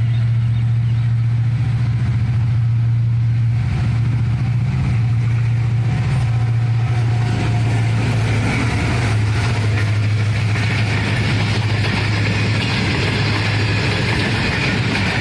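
HGMU-30 diesel-electric locomotive hauling a passenger train: a loud, steady low engine drone, with the rushing rattle of the coaches' wheels on the rails building from about halfway through.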